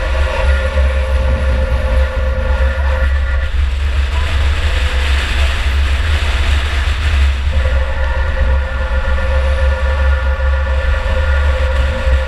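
In-car sound of a 2004 Chevy Impala derby car under way: the engine running hard over a heavy, steady low rumble, with a steady whine that holds for the first three seconds, drops away, and comes back about halfway through.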